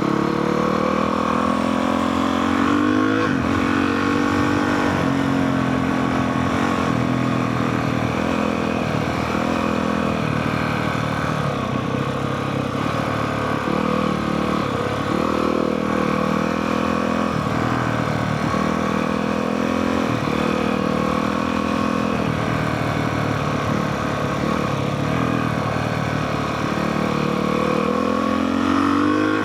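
Honda CRF450R dirt bike's single-cylinder four-stroke engine running as it is ridden, its pitch rising and falling with the throttle, and climbing near the end as it revs up.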